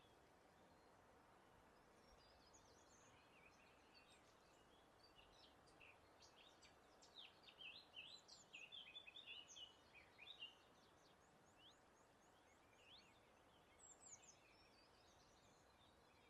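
Faint birdsong of several short chirps and quick trills over a steady soft hiss of breeze, busiest about halfway through, with a run of quick, evenly spaced notes and a few falling notes later on.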